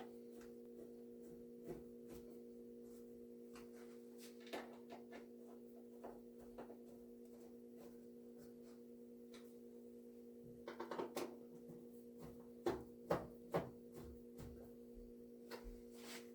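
Faint scattered clicks and taps of parts being handled during reassembly of the water heater, with a few sharper knocks about two-thirds of the way through, over a steady low hum.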